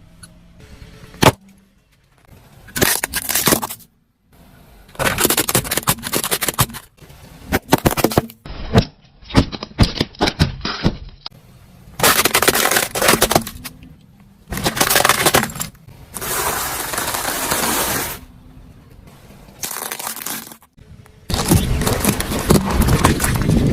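Objects being crushed, cracking and crunching, in a string of short separate bursts with sudden starts and stops.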